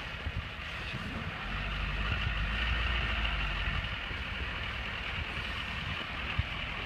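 Ford tow truck's diesel engine running while hauling a heavy van, a steady low drone that grows louder about a second and a half in.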